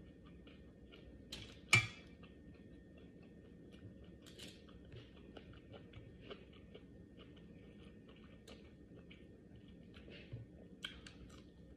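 A person chewing and eating, with small wet mouth clicks throughout. There is one sharp click about two seconds in, and a couple more near the end.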